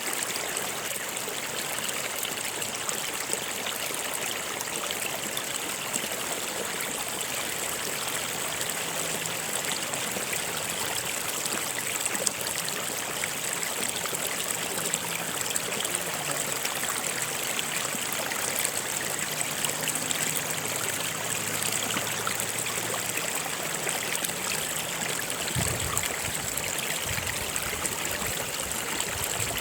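Stream water flowing steadily over rocks, a continuous even babble and rush.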